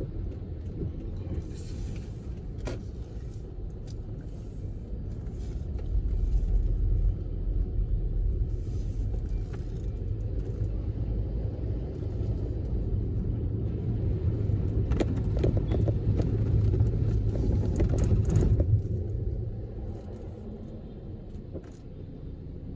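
Low, steady rumble of a car driving on the road. It grows louder about six seconds in and eases off a few seconds before the end.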